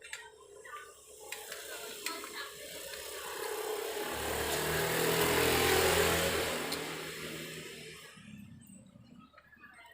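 A motor vehicle passing by. Its engine and tyre noise grows louder over several seconds, peaks about six seconds in, then fades away. A few small clicks of handled metal come before it.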